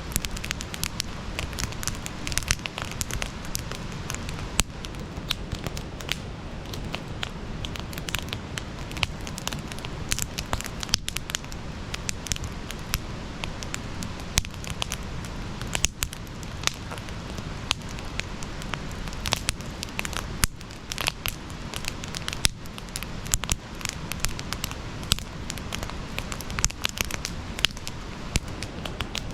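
Wood campfire burning, crackling with many sharp irregular pops over a steady low rush of flame.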